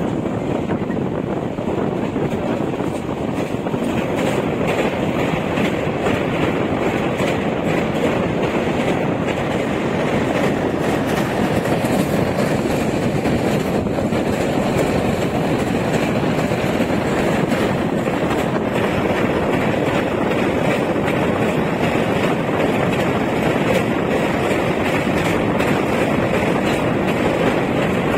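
Running noise of a fast express passenger train heard from an open coach door: a steady rumble of wheels on rail, with clicking over the rail joints. In the second half it runs over a steel truss bridge.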